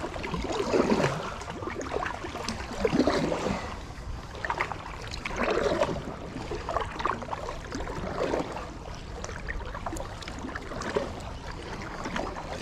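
Kayak paddle strokes dipping and splashing in river water, an uneven stroke every second or two.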